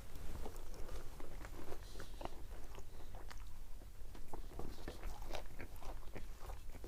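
A person chewing and biting food close by, with irregular small crunching clicks.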